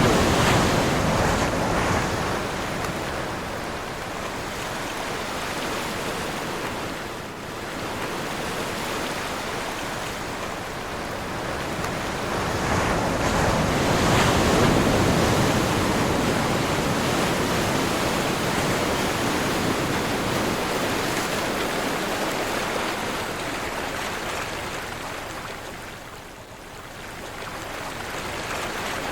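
Ocean surf and wind: waves breaking and washing in as a continuous rush that swells and eases, loudest about halfway through, with brief lulls about a quarter of the way in and near the end.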